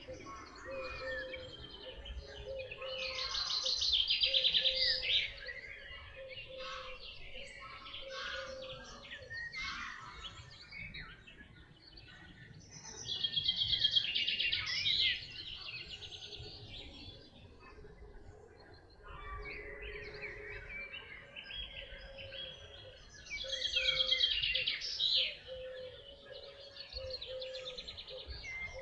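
Several wild songbirds singing together in a chorus. One loud, fast trilling song phrase rises above the rest about every ten seconds, three times.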